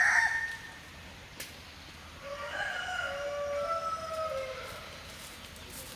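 Rooster crowing: one long crow from about two seconds in, lasting about two and a half seconds, after the end of a louder crow or cluck right at the start.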